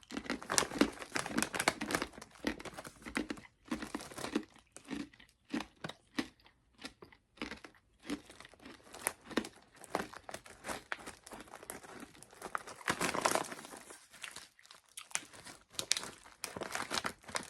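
Plastic candy packaging crinkling and rustling as it is handled, in dense irregular crackles with a short lull near the end.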